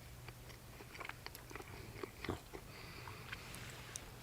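A man chewing a mouthful of steak: soft, scattered clicks and wet mouth sounds.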